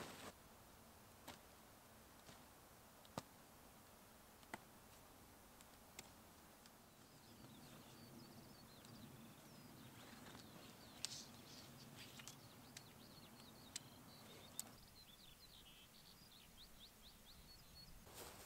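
Near silence with a few faint scattered clicks; from about seven seconds in, a small bird calls faintly in a quick run of short, high chirps for about ten seconds.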